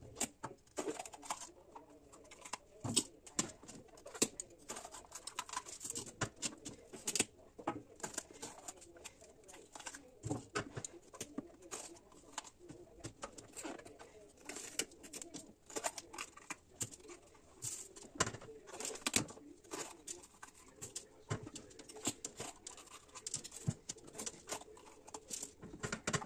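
Frequent small clicks and knocks of kitchen work, with birds cooing behind them.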